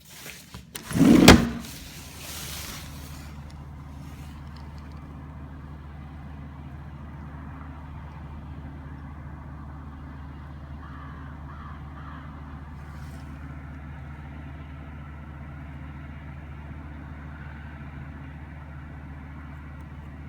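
A loud, brief scrape-and-clatter about a second in, then a parked truck's engine idling steadily with an even low hum.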